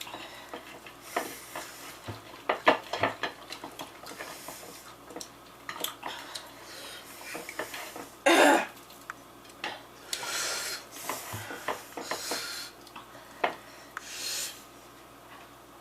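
Eating at a table: scattered clicks and taps of a plate and utensils while spicy chicken wings are dipped and eaten, with a few short breathy hisses and one short, louder noise about halfway through.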